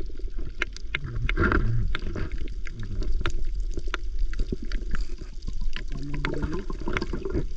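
Water sloshing and gurgling around the microphone over a steady low rumble, with many scattered sharp clicks and a muffled voice briefly twice.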